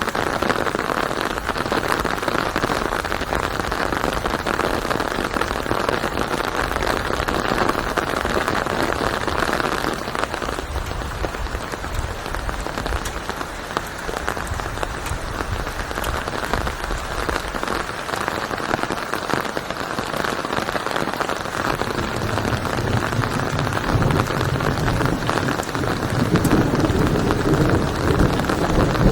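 Steady rain falling and pattering on a surface. The sound is brightest in the first third, and a deeper, lower wash of sound swells in over the last several seconds.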